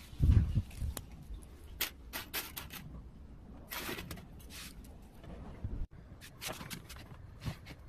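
Hands-on repair handling noise: a low thump, then scattered light clicks and taps, as wire and pliers are worked against a plastic chair.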